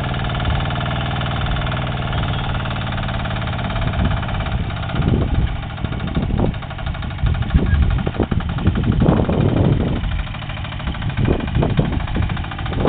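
Motor Sich mini-tractor engine running with its rotary hoe attachment, steady for the first few seconds. From about five seconds in, irregular heavy thuds come over the engine.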